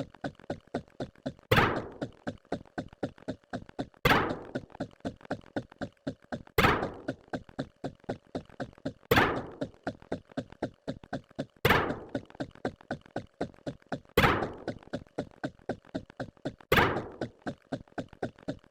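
A repeating sound effect: a loud thunk about every two and a half seconds, with a rapid run of small clicks in between.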